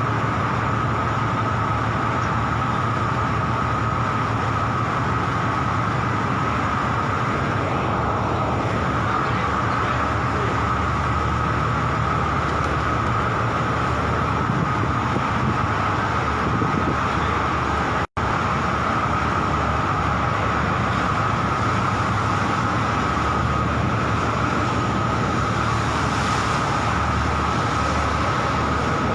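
Ship's engine running with a steady drone and a constant whine, which cuts out for an instant a little past the middle.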